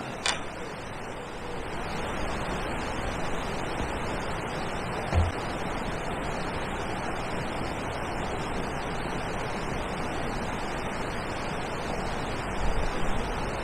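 Steady rushing outdoor noise, with one short low knock about five seconds in.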